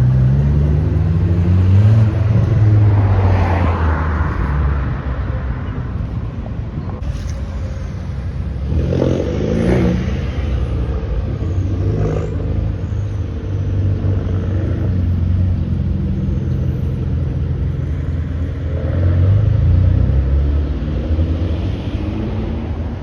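Exhausts of modified cars rumbling deeply at low revs as they roll slowly past, with the engine note climbing briefly in the first few seconds and a short rev about nine seconds in.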